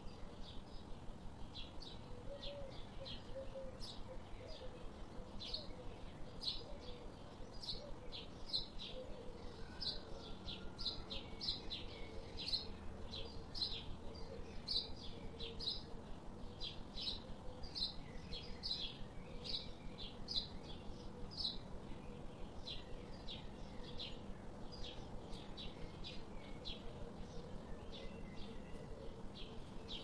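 Small birds chirping: short, high chirps repeated a few times a second without a break, over a faint steady lower tone and background noise.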